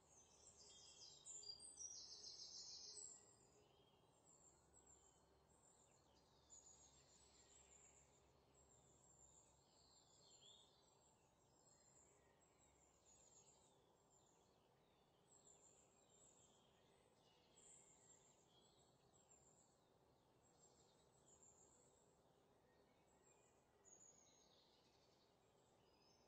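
Near silence, with faint high bird chirps scattered throughout and a brief patch of louder chirping in the first three seconds.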